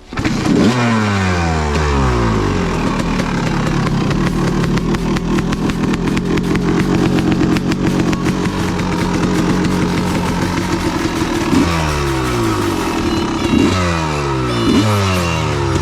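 2002 Honda CR250 two-stroke motocross engine running: it comes in loud with its pitch falling, settles to a steady run, then is blipped up and down four or five times near the end. The bike had been dying in the corners and stalling, so it is being run and revved to see whether it keeps going.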